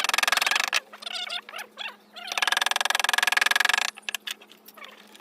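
Animal calls: a loud, rapidly pulsing buzzing trill at the start and again in the middle, with quieter chirping calls between and after.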